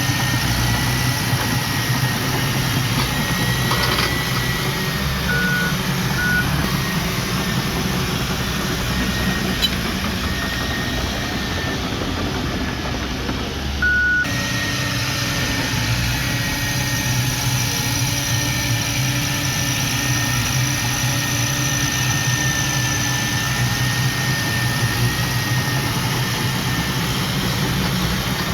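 Heavy diesel earthmoving machinery running steadily, with a thin high whine over the engine noise. Three short beeps sound: two close together early on and one about halfway through.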